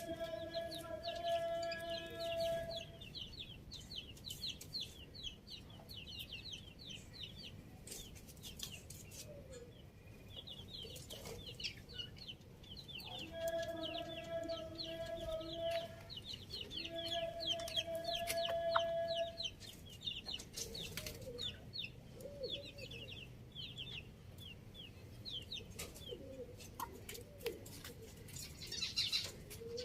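Rooster crowing three times, each a long steady call of two to three seconds: once at the start, then twice more about halfway through. Small birds chirp rapidly over it, and short low calls come near the end.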